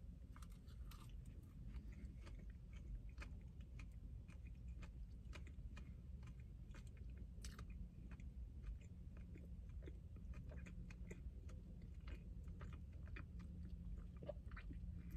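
A person chewing a mouthful of donut: faint, irregular wet mouth clicks and smacks, over a low, steady hum.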